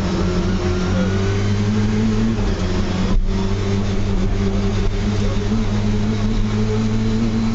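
Lada VFTS rally car's four-cylinder engine pulling hard at high revs, heard from inside the cabin. The sound breaks off for an instant about three seconds in, then the revs climb again.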